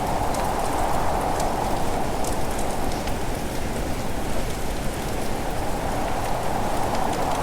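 Steady heavy rainfall: a dense, even hiss with scattered sharp drop ticks.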